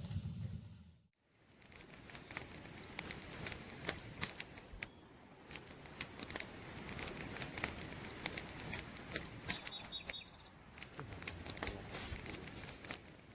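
Wood campfire crackling, with many irregular sharp snaps and pops over a soft hiss. A low rumble fades out in the first second before the crackling starts, and a few faint high chirps come about nine seconds in.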